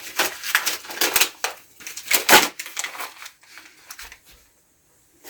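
Kindling being handled and broken while a fire is laid in a fireplace: a run of irregular crunching, crackling noises over the first three seconds or so, then only faint scraps.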